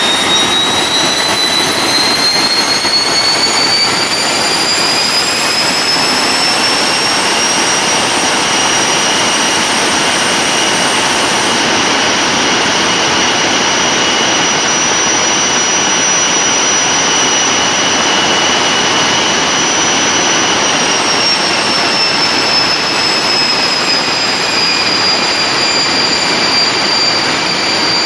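TEP70 diesel locomotive's diesel engine running under load, its turbocharger whistling loudly over the engine noise. The whistle rises in pitch over the first several seconds as the turbo spools up, holds steady, then drops a little about three quarters of the way in.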